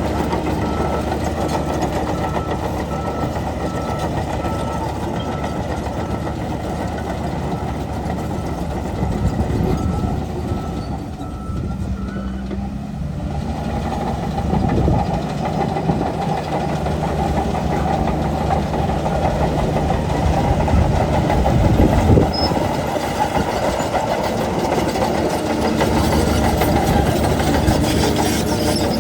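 Heavy diesel engine of a bulldozer working, running steadily with load changes and a dip then a rise in level about halfway through. A reversing alarm beeps repeatedly for about the first third.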